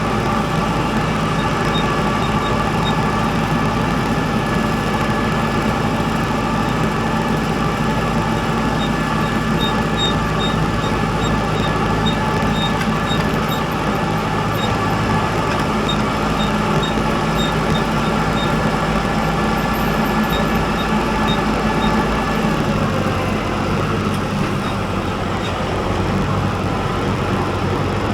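A vehicle engine running steadily as a continuous drone; about 22 seconds in its note drops to a lower pitch.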